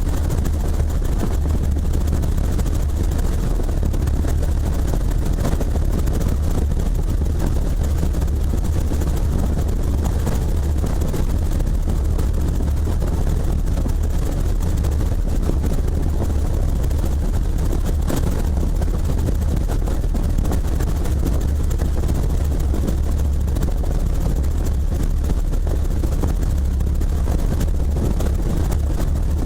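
Helicopter running steadily: a constant deep rotor and engine drone under an even rush of noise, with no change in pitch or level.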